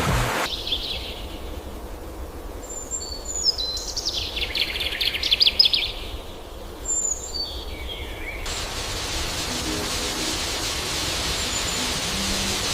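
Wild birds calling: short high chirps, with a fast dry rattling call about four to six seconds in, the loudest sound. After about eight seconds this gives way to a steady hiss.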